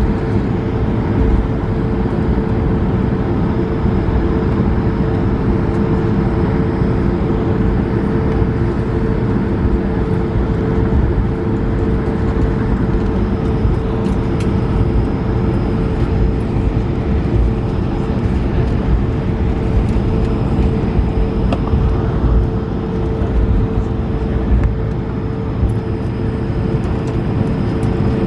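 Steady cabin noise inside an Airbus A220-300: its Pratt & Whitney geared turbofans running evenly, a low rumble with a steady hum, not rising or falling.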